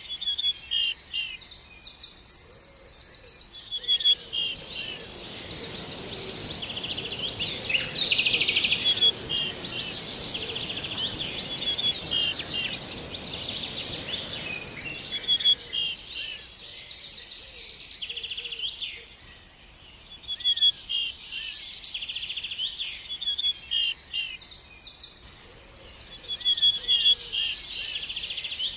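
Many small birds chirping and trilling at once, with rapid repeated notes overlapping. A steady high hiss and a low rumble come in about four seconds in and fade after about sixteen seconds, and the birds fall briefly quiet near the twenty-second mark.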